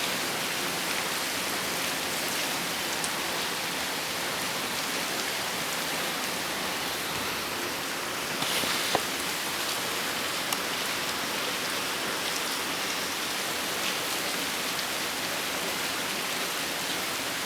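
Steady rain from a rainstorm, a continuous hiss dotted with sharp drop ticks. A brief louder rush comes about halfway through, followed by a single sharp click.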